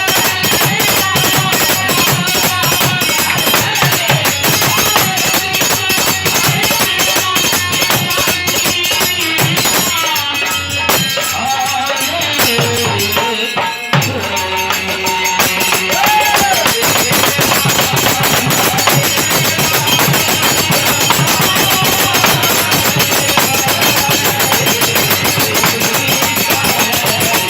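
Kirtan music: a fast, steady beat of jingling hand percussion with a melody over it. The percussion drops away for a few seconds near the middle, leaving the melody, then comes back in.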